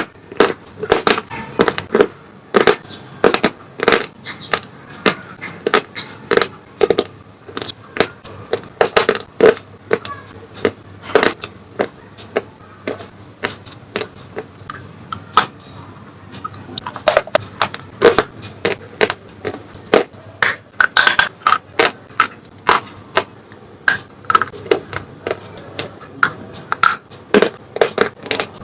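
Slate pencils being bitten and chewed close to the microphone: irregular, sharp dry crunches, several a second.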